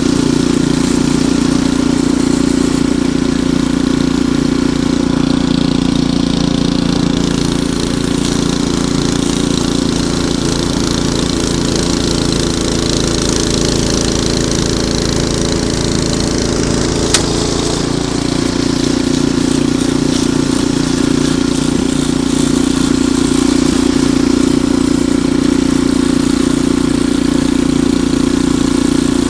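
Ariens Deluxe 28 two-stage snowblower's single-cylinder engine running steadily, with one sharp click a little past halfway.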